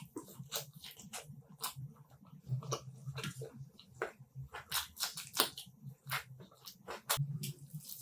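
Close-miked eating sounds: wet chewing and mouth smacks on a chicken leg piece in curry, with many irregular sharp clicks.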